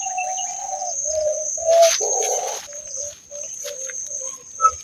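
Birds calling in a series of short low notes over a steady high-pitched insect drone, with a brief rustling noise about two seconds in.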